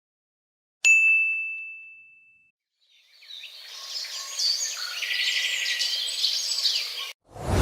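A single bright ding that rings and fades over about a second and a half, then a few seconds of many birds chirping together that cut off suddenly. A loud noisy sound starts just at the end.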